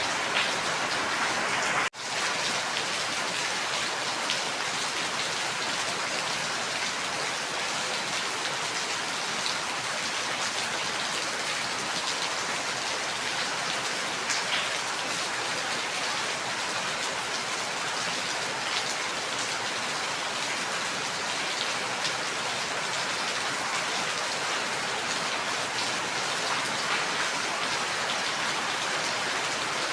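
Steady rain falling, an even hiss with scattered sharper drop ticks. It cuts out for an instant about two seconds in.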